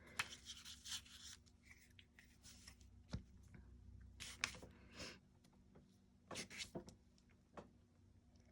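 Faint, intermittent rustling of paper scraps being handled and shifted on a desk, with a few light taps and clicks.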